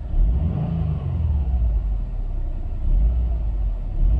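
Subaru WRX STi's turbocharged 2.5-litre flat-four on its factory exhaust, heard from inside the cabin: a low idle rumble with a short rev blip that rises and falls in the first second.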